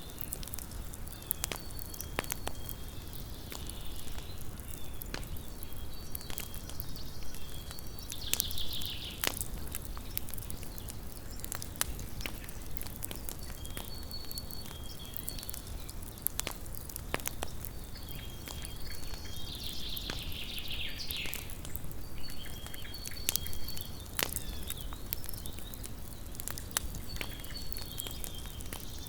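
Small wood campfire crackling, with irregular sharp pops and snaps over a low steady rustle of flame. Faint high chirping calls repeat in the background, with a longer, falling high call about eight seconds in and again near twenty seconds.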